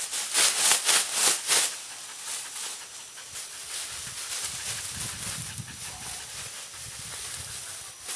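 Plastic poncho rustling and crinkling as it is pulled on over the head, with several loud strokes in the first couple of seconds, then quieter handling with a low rumble in the second half.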